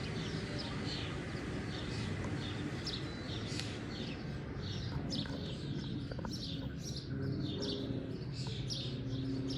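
Birds chirping: a run of many short, high chirps over a steady low background rumble.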